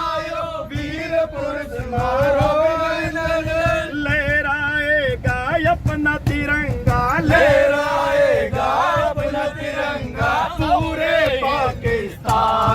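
Male voices chanting in a sung melody, with long held notes that waver in pitch.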